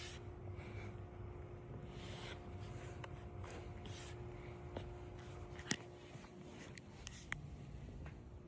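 Quiet room tone with a steady low hum, broken by a few scattered light clicks and short rustles; the sharpest click comes a little past halfway.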